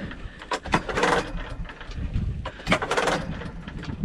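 Old small gasoline engine of a generator being cranked twice without catching, two rough bursts about two seconds apart; the engine is starved of fuel and will not run.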